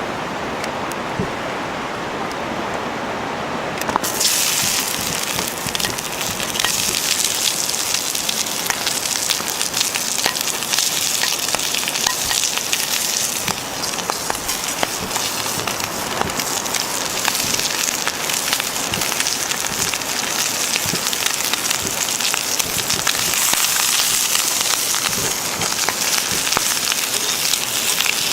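Food sizzling in a hot pan over a wood fire, the sizzle starting suddenly about four seconds in and then going on steadily, with small crackles from the burning wood throughout.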